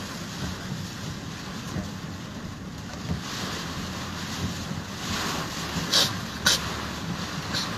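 Heavy rain and water noise heard from inside a moving vehicle driving through a flooded road, with the vehicle's engine running low underneath. Two short sharp hits come about six seconds in.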